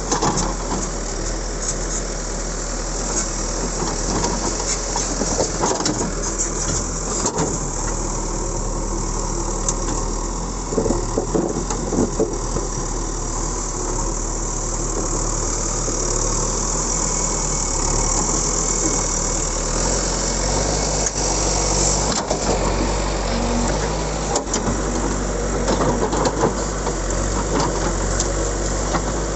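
JCB backhoe loader's diesel engine running steadily while the machine works, with a few short clanks.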